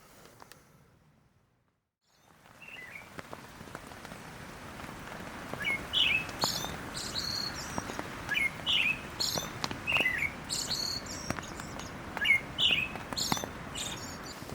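Wild birds calling in short, sharp, repeated chirps, roughly one a second, over a steady outdoor background hiss that starts after a brief silence about two seconds in.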